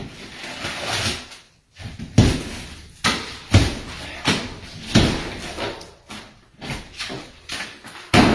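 Hammer smashing through drywall (sheetrock) in an interior wall: a string of hard, irregular blows, about one every half-second to second, with crumbling board noise between them.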